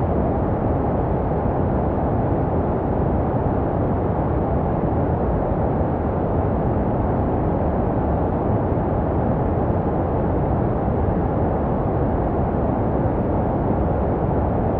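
Steady, deep rushing noise that never changes, with the highs rolled off: white noise shaped to resemble the sounds a baby hears in the womb, played to calm a crying or colicky infant to sleep.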